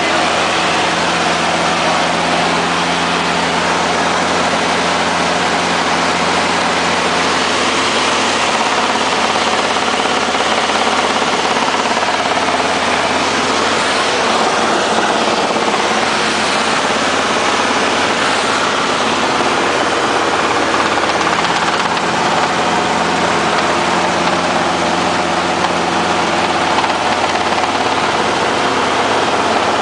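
Helicopter in flight: steady, loud engine and rotor noise with a constant low hum, and a steady tone that fades out about seven seconds in and comes back near the end.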